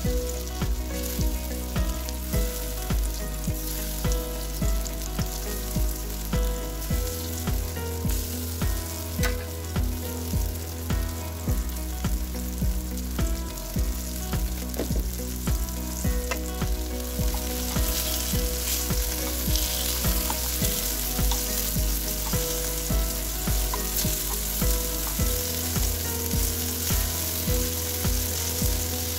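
Sweet potato patties sizzling as they fry in a little ghee or butter in a nonstick frying pan. The sizzle grows louder a little over halfway through. Background music with a steady beat plays underneath.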